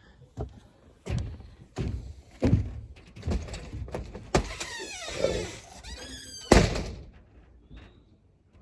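A door being handled: a run of knocks and thuds with a squeak, then one loud slam about six and a half seconds in.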